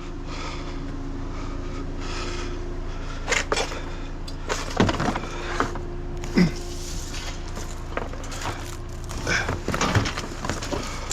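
Scattered knocks and clunks of scrap items being picked up and handled, over a steady low hum.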